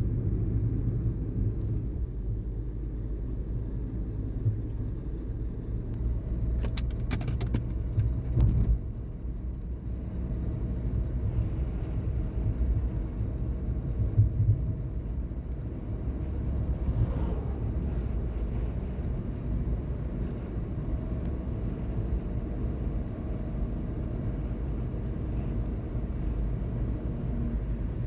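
Car driving, a steady low road and engine rumble, with a short run of sharp clicks and knocks about seven to eight seconds in.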